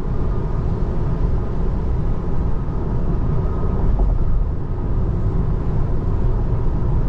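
Steady road and tyre noise inside the cabin of a 2024 Tesla Model 3 on the move, a low even rumble with no engine sound.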